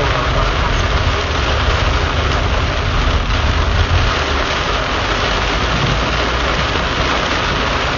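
Heavy rain beating on a car's roof and windshield, heard from inside the cabin, over a steady low rumble of the moving car.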